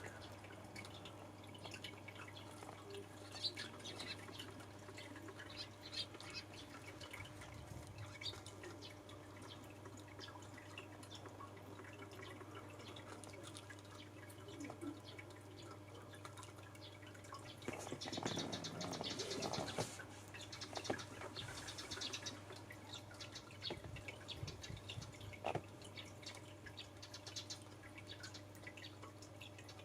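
Eurasian tree sparrows chirping: scattered short chirps, busier for a few seconds about two-thirds of the way through, over a faint steady hum.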